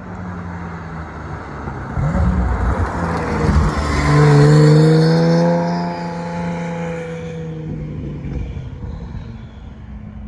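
Porsche 991.2 911's flat-six with a Kline aftermarket exhaust driving past under acceleration. It grows louder from about two seconds in, is loudest around four to five seconds in, then fades away.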